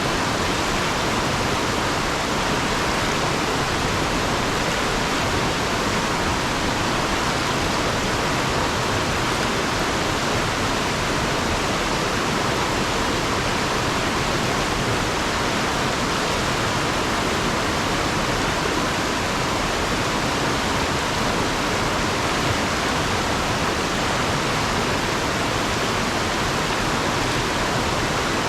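Fast river water rushing over and around rocks: a steady, even rush with no breaks.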